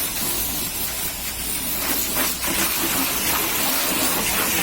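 Car-wash water spray hissing steadily as the jet plays over a car.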